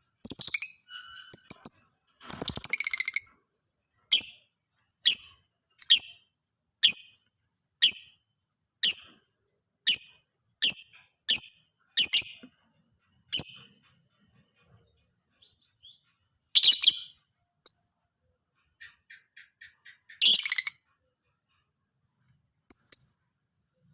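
Lovebird calling: a short burst of rapid, high chattering, then a run of sharp, high chirps repeated about once a second. After a pause a few scattered single calls follow.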